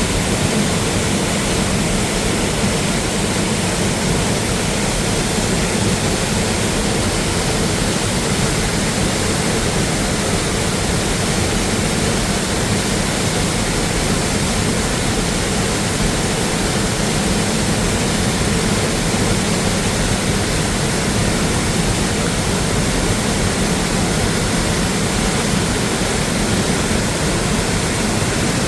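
Rushing water from a waterfall or mountain stream, a loud, steady rush with no let-up.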